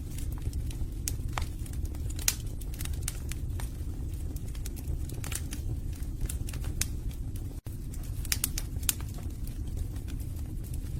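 Wood fire burning in a fireplace: a steady low rumble of flames with irregular sharp crackles and pops from the logs. The loudest pops come about two seconds in and again near the end. The sound cuts out for a split second about two-thirds of the way through.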